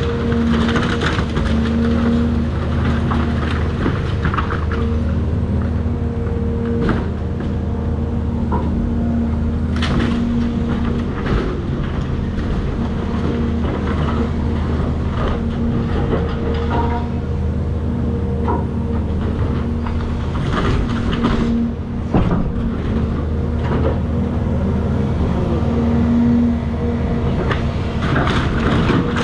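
Cat 336 hydraulic excavator's diesel engine running steadily under load, with scattered sharp knocks and crunches of demolition debris several times.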